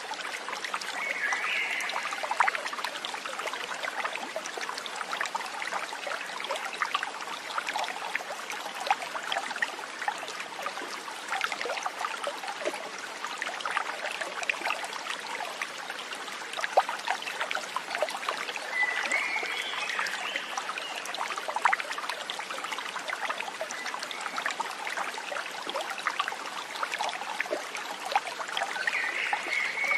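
A small stream trickling and babbling steadily, with many fine splashes. Three brief high calls from an animal come through it: one near the start, one about two-thirds of the way in, and one at the very end.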